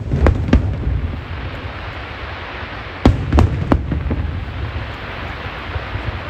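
Aerial fireworks bursting: three sharp bangs near the start and three more about three seconds in, over a continuous low rumble and crackling hiss from the display.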